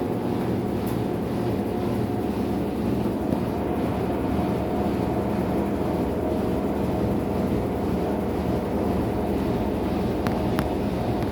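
Maytag MVWX655DW1 top-load washing machine running its tub clean cycle: a steady machine hum with a constant whine over an even rushing noise.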